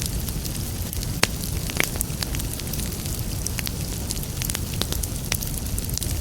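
Wood fire burning in a fireplace: a steady low rush of flames with irregular sharp crackles and pops, one louder pop about a second in.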